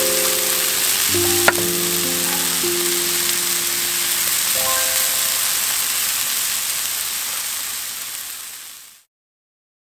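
Meat and enoki mushrooms sizzling in a cast-iron micro oval Dutch oven over a burner, a steady frying hiss, with one sharp click about one and a half seconds in. Soft background music with held notes plays over it until about five seconds in. The sizzle fades out and stops near the end.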